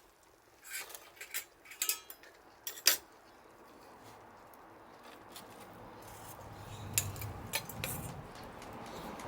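A quick run of sharp metallic clinks and knocks, like cookware or utensils being handled, in the first three seconds. A steady hiss then builds slowly, with a few more clicks near the end.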